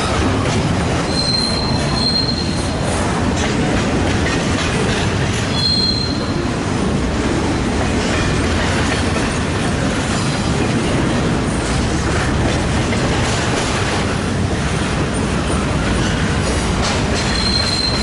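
Train cars rolling past close by, a steady rumble of wheels on rail. Three short, high wheel squeals: about a second in, around six seconds, and again near the end.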